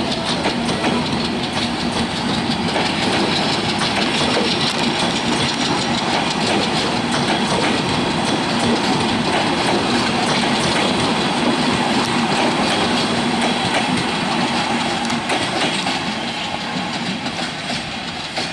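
Passenger coaches of a departing broad-gauge train (Indonesian-built PT INKA rake) rolling past close by: a continuous rumble of wheels on rail with a steady clickety-clack of wheels over rail joints, easing slightly near the end.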